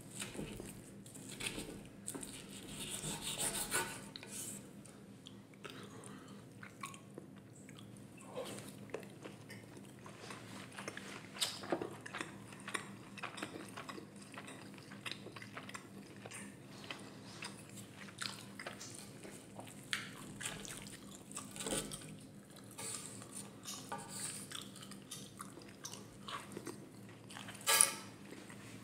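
Close-miked chewing of ribeye steak: wet, irregular mouth clicks and smacks. It opens with a wooden spoon pressing through the meat on a slate board. There is one sharp click near the end.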